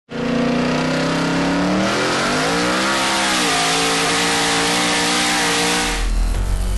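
Twin-turbo 427 V8 of a drag-racing Cadillac Escalade under hard acceleration: the engine pitch climbs, rises once more and drops as it shifts a gear, then holds steady under a loud rushing noise. Heavy bass music comes in near the end.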